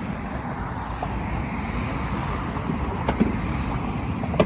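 Steady rushing road noise with wind buffeting the microphone. Two short knocks come about three seconds in and near the end.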